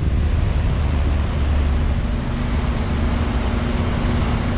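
A 2004 Lennox Merit 4-ton heat pump outdoor unit running in cooling mode: its four-blade condenser fan and Copeland scroll compressor make a steady rush of air over a low hum. A faint steady tone joins in about a second in.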